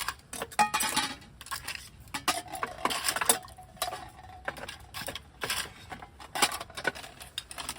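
Irregular clinks and knocks of tableware (cups, dishes and utensils) being handled, a few of them ringing briefly.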